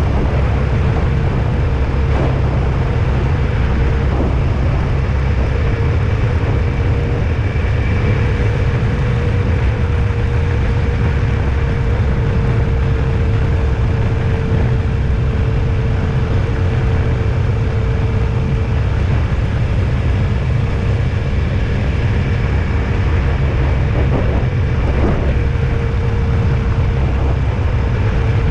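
Steady low rumble of a vehicle driving along a road, with a faint droning tone above it that wavers slightly in pitch and a few light bumps.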